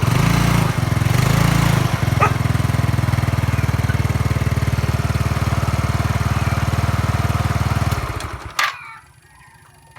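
Yamaha Mio Sporty scooter's single-cylinder four-stroke engine running with a steady fast beat, revved briefly twice at the start, then stalling and dying away about eight seconds in, typical of its hard-starting problem.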